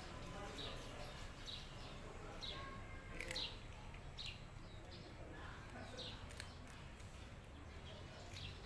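Small birds chirping, short falling chirps repeated every second or so, with a few faint crisp clicks from a cat chewing crunchy puffed snacks.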